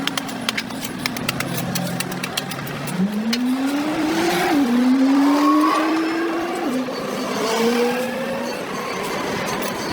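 A passing motor vehicle's engine accelerating through the gears, its pitch climbing and dropping back at each shift, about four and a half and again about six and a half seconds in. A run of sharp clicks comes first, in the opening three seconds.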